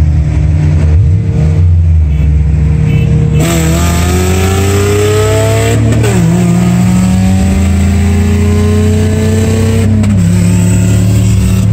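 A 1989 Ford Mustang SSP's 5.0-litre V8, heard from inside the cabin. It cruises steadily, then goes to hard acceleration about three seconds in. The engine note climbs through the gears, dropping in pitch at upshifts about six and ten seconds in.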